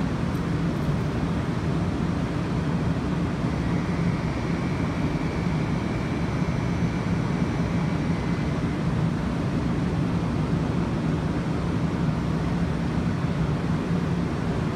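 Steady low hum and rushing noise from a stationary 500 Series Shinkansen's onboard equipment. A faint thin high tone joins in for a few seconds about four seconds in.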